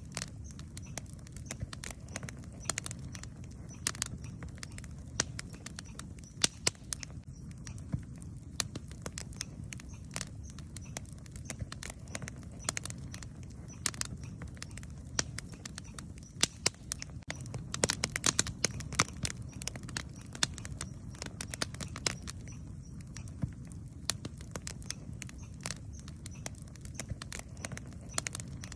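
Wood campfire burning, with frequent sharp crackles and pops over a low steady rumble. The crackling grows denser about eighteen seconds in.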